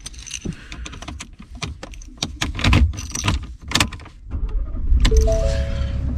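A quick run of sharp clicks and knocks, like keys and handling inside a vehicle, then from about five seconds in a steady low rumble of a running vehicle with a few short musical notes over it.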